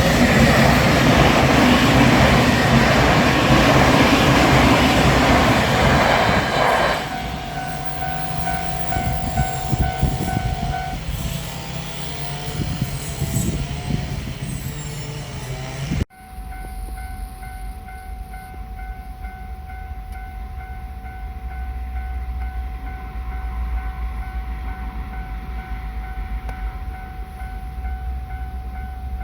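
An electric train runs loudly over a Japanese level crossing for about seven seconds while the crossing's warning bell rings. The bell keeps ringing in a steady, repeating pattern after the train has gone. After a sudden break about halfway through, the bell is ringing again, with a low rumble under it.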